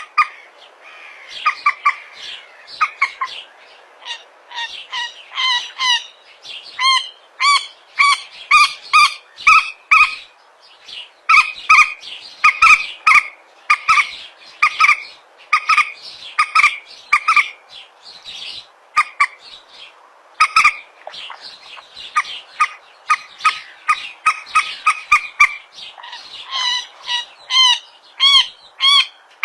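Common moorhen (mandar batu) calling: loud, short, clucking notes repeated two or three a second in bouts, with brief pauses between the bouts.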